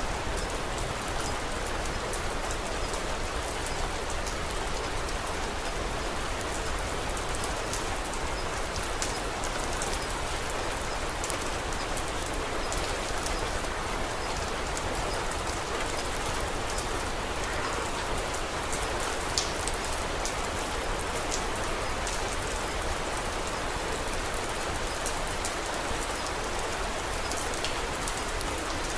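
Steady rain falling, with scattered sharp crackles from a wood fire; one crackle, about nineteen seconds in, is sharper than the rest.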